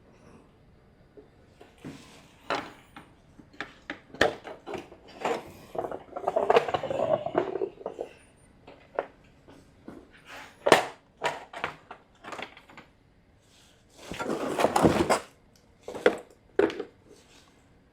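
Scattered clicks, taps and knocks of an LED shop light's housing and parts being handled, with two longer rough scraping stretches, one about six seconds in and one near fourteen seconds.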